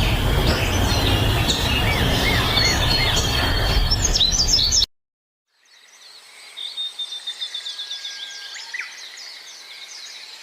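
Birds chirping and calling over a loud rushing noise that cuts off suddenly about halfway through. After a moment of silence, quieter birdsong with rapid trills and chirps fades in.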